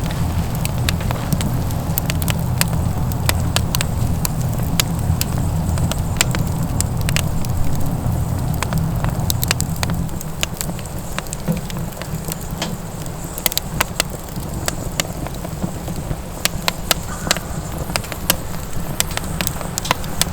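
Firewood burning in a homemade flue-pipe wood stove, crackling with many sharp, irregular pops. Under it is a low rumble that drops away about halfway through.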